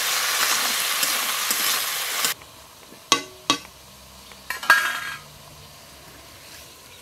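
Red amaranth leaves sizzling in hot oil in a kadai as they are stirred with a metal spatula; the sizzle stops abruptly about two seconds in. Then a few sharp metal clinks of steel plates being handled, the loudest near the middle with a short ring.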